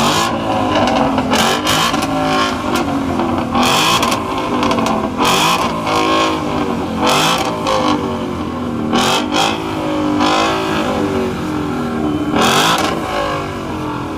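Car engine revved hard again and again, its pitch climbing and dropping many times, with short sharp bursts of noise between the revs.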